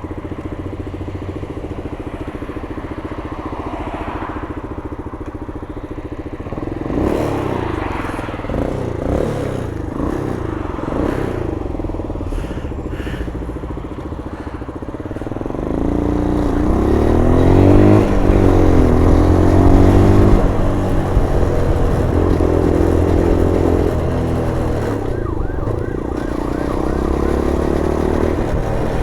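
MGB ATX 125cc adventure motorcycle's engine under way on the road, its note rising and falling several times as the rider opens and closes the throttle through the gears. The engine gets louder from about halfway through.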